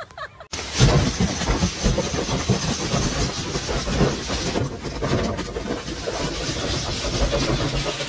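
Vehicle noise: a steady rushing of engine and road noise that starts abruptly about half a second in.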